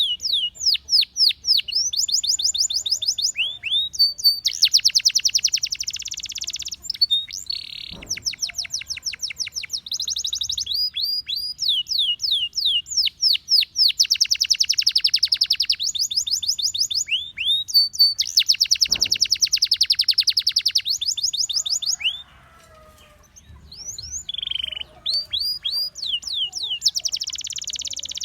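Gloster canary singing: series of repeated falling whistled notes alternating with fast, dense trills, with a short pause about three-quarters of the way through before the song resumes.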